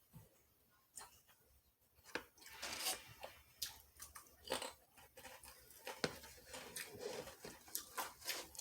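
A person biting into and chewing a Subway club sub sandwich, with irregular short mouth clicks and brief bursts of chewing noise.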